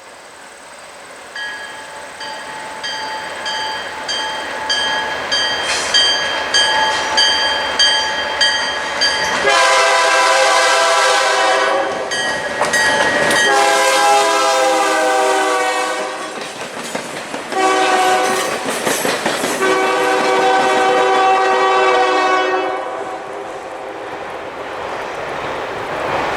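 A warning bell rings about twice a second, then a diesel locomotive's air horn sounds the grade-crossing signal, long, long, short, long, as the train passes.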